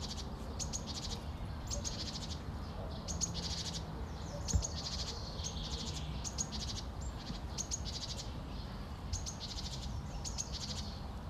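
A small bird singing: a short, high, rapidly trilled phrase repeated about once a second over low background noise. There is a single soft knock near the middle.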